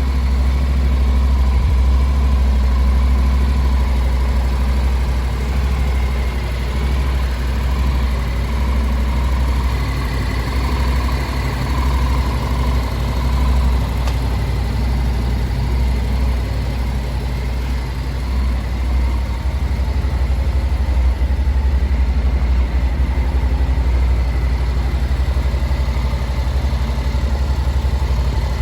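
Honda CTX700 DCT's parallel-twin engine idling steadily.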